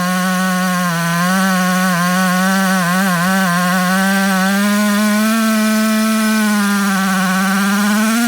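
Jonsered 90 two-stroke chainsaw running at high revs under load while milling a log into boards. Its pitch wavers slightly, sags about two-thirds of the way through, then climbs back near the end.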